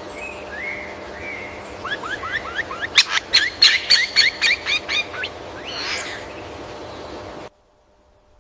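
A bird singing: a few soft whistled notes, then a quick run of short rising chirps, about four a second, that peaks in the middle and fades out. The song cuts off abruptly near the end.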